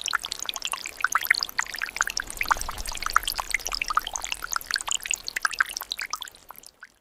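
Water pouring and trickling, with many small droplet plinks; it fades out near the end and stops.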